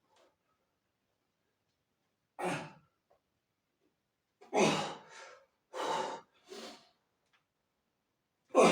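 A person breathing heavily close to the microphone: about six short, noisy breaths at irregular intervals, with silence between them, the loudest about five seconds in and at the end.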